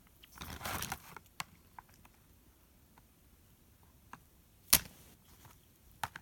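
Plastic toy figures being handled: a short rustle at the start, scattered light clicks, and one sharp plastic click about four and a half seconds in, with a smaller one near the end.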